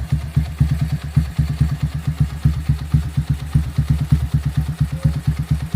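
Motorcycle engine idling through a JMF aftermarket exhaust (knalpot): a deep, uneven beat of several exhaust pulses a second that holds steady throughout.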